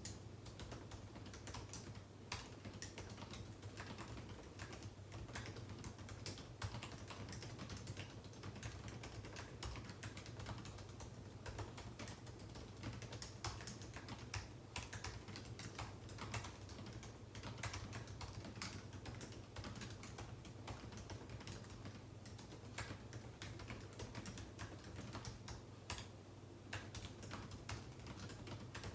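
Typing on a computer keyboard: a continuous, irregular run of key clicks, over a steady low hum.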